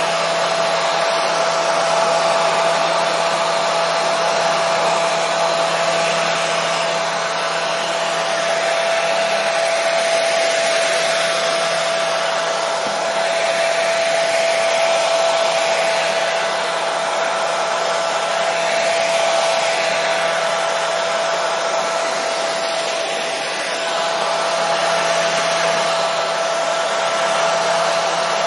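Hair dryer running continuously: a steady blowing rush with a constant motor hum, used as white noise to settle a baby.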